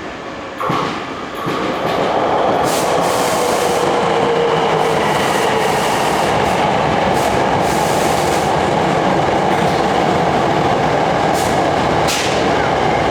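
Hankyu electric train running through the station: a loud, steady rumble of wheels and running gear that swells in over the first two seconds, with a few short clicks on top.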